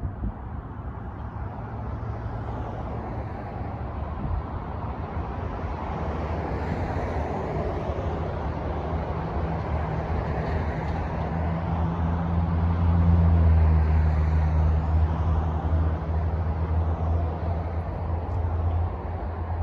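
A vehicle passing close by: a low, steady hum with road or rail noise that builds to its loudest about two-thirds of the way through, then eases off slightly.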